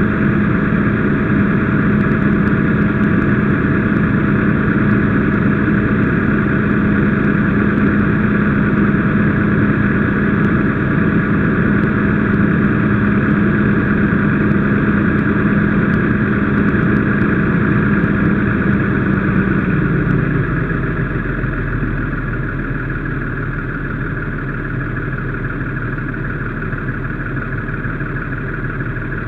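Fire engine's engine running steadily at high speed, then dropping to a lower speed about twenty seconds in.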